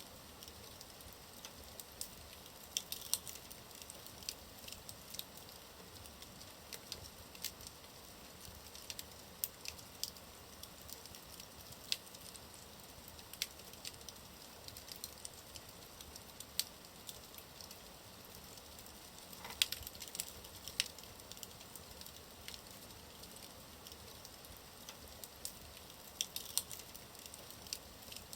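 Wood fire burning in a fireplace: a soft steady hiss with irregular sharp crackles and pops, a few louder pops coming in small clusters.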